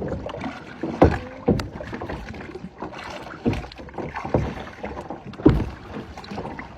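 Kayak paddles dipping and splashing in the water at irregular strokes, with a few sharper knocks among them.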